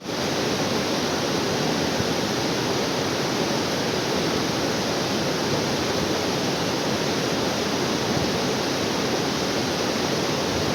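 Steady rushing of water falling from a waterfall: an even, unbroken roar.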